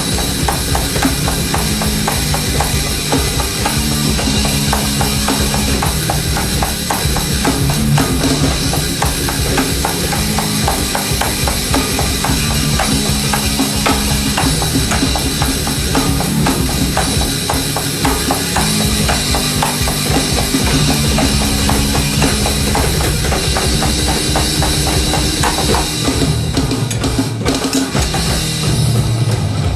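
Live band music without vocals: a drum kit played fast and steady, kick and snare, over held bass notes that shift every second or two.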